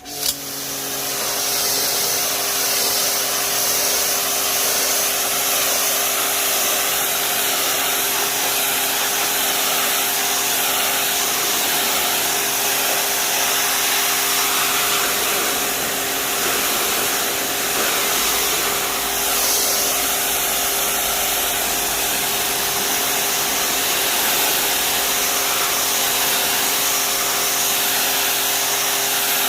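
Wilks USA RX 550i electric pressure washer starting suddenly, then running steadily, spraying a water jet through its 25-degree nozzle. A constant motor-pump hum sits under a loud hiss of spray.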